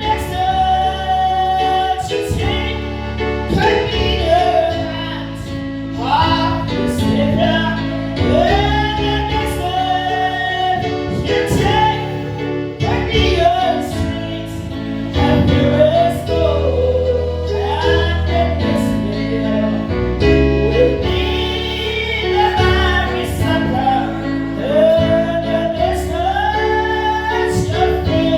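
Gospel singing led by a woman's voice, with instrumental accompaniment that keeps a steady low bass line under the sung notes.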